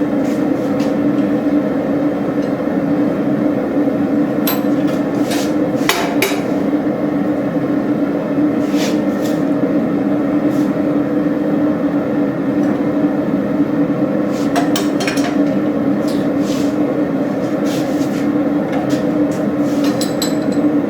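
Forge running with a steady drone while the railroad spike takes a heat. Scattered, irregular sharp metal taps and clinks sound over it every few seconds.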